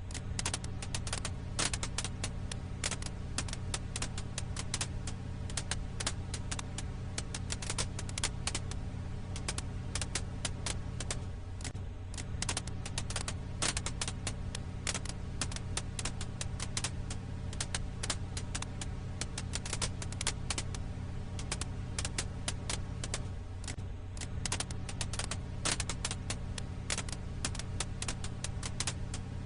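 Firewood crackling in a campfire ambience track: dense, irregular sharp pops and snaps over a steady low hum.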